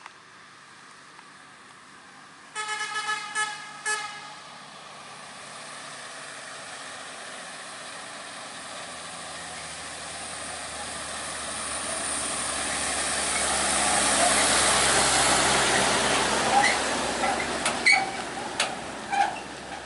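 A heavy truck's horn gives a quick series of short toots a couple of seconds in. Then a heavy diesel truck grows steadily louder as it comes up close, working hard on a steep climb. Several sharp knocks and clanks follow near the end.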